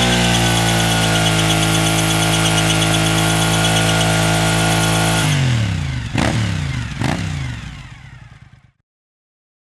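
2003 Suzuki SV1000S's V-twin engine held at steady high revs with the rear tyre squealing in a burnout. About five seconds in, the revs drop away suddenly, two sharp bangs come about a second apart, and the sound fades out.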